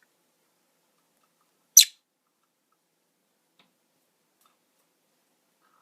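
A single short, high-pitched chirp from a small pet parrot, about two seconds in; the rest is near silence.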